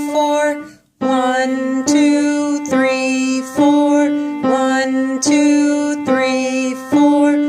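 Keyboard playing a simple beginner melody of sustained notes, each about a second long, alternating between middle C and D in a steady four-beat pulse. There is a short break about a second in.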